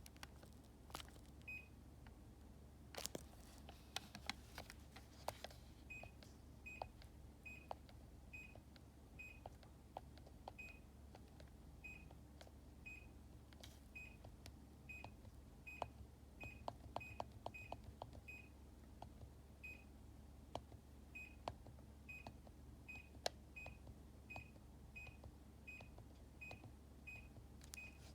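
Buttons clicking on a Daikin air-conditioner remote control, with a string of short high beeps about one a second as the presses are answered.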